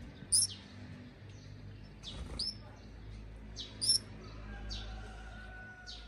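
A fledgling songbird giving short, high begging chirps that fall in pitch, one every second or so, beak gaping for food held out by hand.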